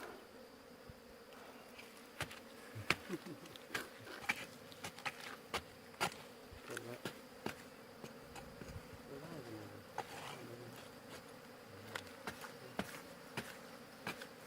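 Ground-nesting bees buzzing faintly as they fly about, the hum wavering up and down in pitch as individual bees pass, with scattered small clicks and ticks throughout.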